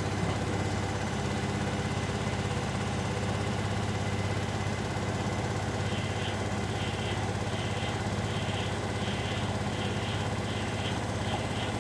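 Bosch Maxx WFL 248Y washing machine running with a steady hum. About halfway through, a rhythmic swishing joins in, repeating roughly twice a second.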